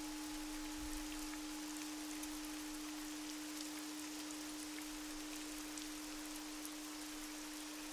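Steady rain patter over a steady low sustained tone. A fainter high pure tone, the 852 Hz healing frequency, fades out about two seconds in.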